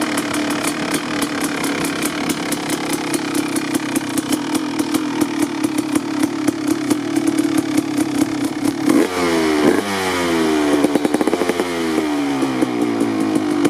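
Kawasaki KX250 motocross bike's engine idling steadily, then revved in a few quick rising-and-falling blips about nine seconds in before settling back to idle near the end.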